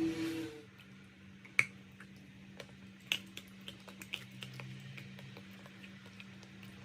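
Crisp, irregular snaps and crackles of chalk being crunched, one sharp loud snap about a second and a half in, then smaller clicks. A little music fades out at the very start.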